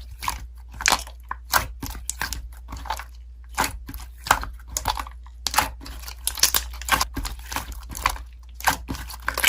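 Slime being squeezed and pressed by hand, giving off irregular crackling and popping clicks, a few each second.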